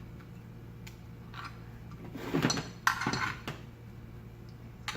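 Screwdriver prying around the housing of a ring fan's electric motor: scattered clicks, then a burst of scraping, knocks and brief clinks about two and a half to three and a half seconds in. A steady low hum runs underneath.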